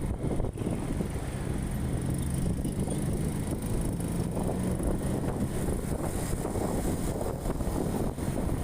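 A motor vehicle's engine running steadily while travelling, with wind noise on the microphone. A low engine hum becomes clearer about a second in.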